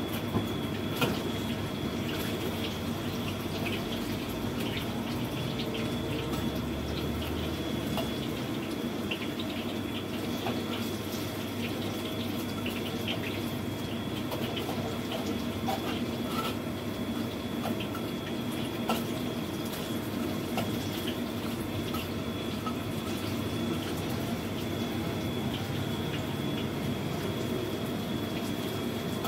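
Sweet potato fritters deep-frying in oil in a wok: a steady sizzle, with occasional light clicks and scrapes of a spatula turning them.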